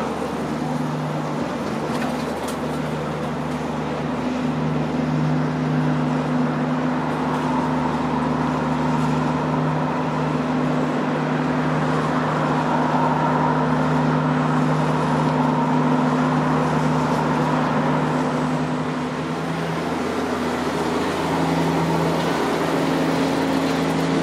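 Trackside railway noise: a steady low hum with a couple of held tones, and a rushing sound that swells through the middle and eases off near the end, fitting a London Underground S7 train pulling away from a station.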